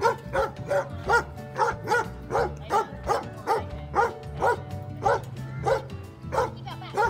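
A dog barking in a steady, rhythmic run, about two to three sharp barks a second. This is excited barking from a working dog held back while another dog does the herding job it wants to be doing.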